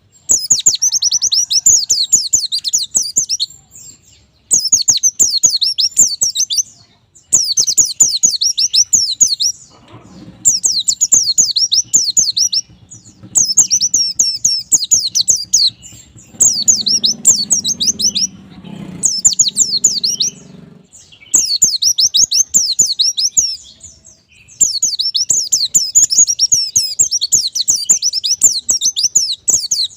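White-eye (pleci) singing: a fast, high twittering song in phrases of two to three seconds, repeated about nine times with short pauses between them.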